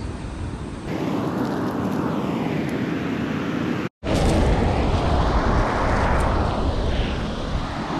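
Surf washing over a shallow reef, two slow swells of rushing water, with wind rumbling on the microphone. The sound cuts out for an instant just before the middle.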